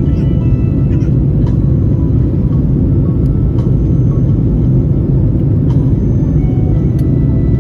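Airbus A321LR jet airliner taking off: a loud, steady low rumble of engines and rushing air, unchanging throughout, with a few faint clicks.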